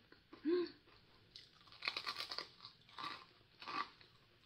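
Close-up crunching and chewing of a crisp cream-filled cookie, in a few short bursts of crunchy bites through the middle and near the end.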